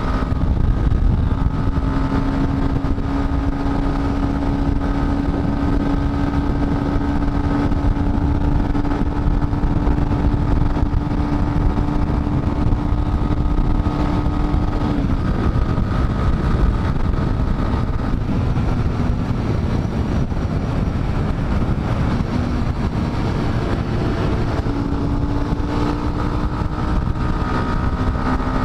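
Dafra Next 250's single-cylinder engine running at steady road speed under a heavy rush of noise. Its steady note drops away about halfway through. It comes back near the end, climbing slightly in pitch.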